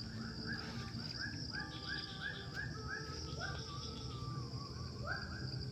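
A rapid series of short sweeping animal calls, about three a second, over a steady high-pitched hum.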